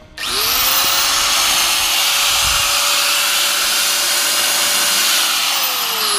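Handheld angle grinder spinning up, running at full speed for about five seconds, then winding down after it is switched off.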